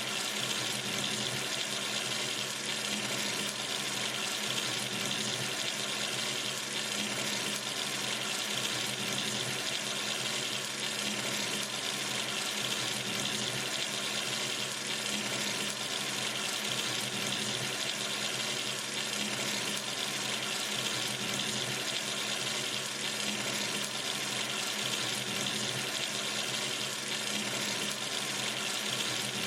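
Kitchen or bathroom sink tap running steadily, water streaming into the basin with an even rushing hiss.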